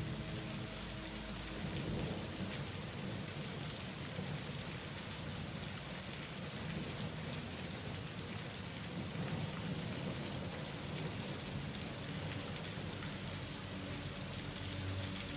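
Steady heavy rain with low rolling thunder rumbling underneath. Soft sustained music tones fade out just after the start and come back near the end.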